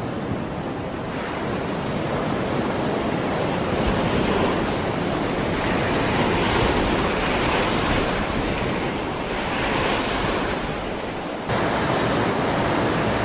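Ocean surf washing in, a steady rush that swells and eases slowly. It gives way abruptly near the end to a different, street-like background.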